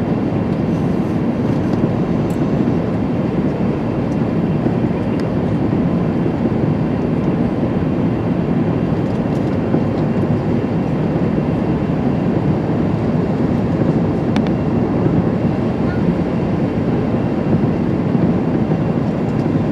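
Steady cabin roar inside an Airbus A380-841 in flight: its Rolls-Royce Trent 970 engines and the rush of air along the fuselage, heard from the lower deck, with no change in pitch or level.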